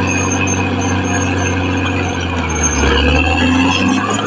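Caterpillar D6R XL bulldozer's diesel engine running, a steady low drone; a little past halfway the engine note deepens and grows louder while a higher tone rises.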